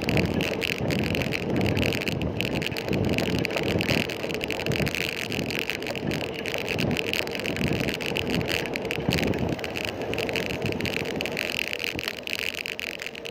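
Steady rumble of road and traffic noise with wind on the microphone, heard from a moving bicycle.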